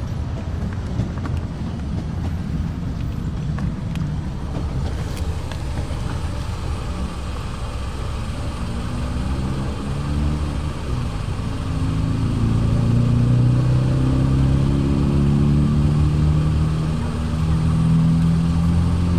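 A car engine running with low rumbling noise; about halfway through its note comes up as a set of low tones that waver in pitch, and it grows louder a few seconds later.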